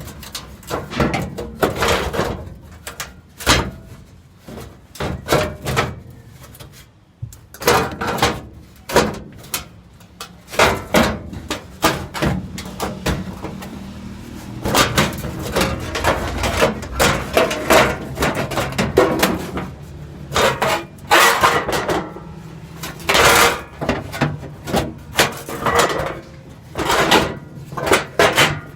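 Irregular metal knocks and clanks, many in quick runs, from tools and parts being worked during a truck transmission installation, over a low steady hum.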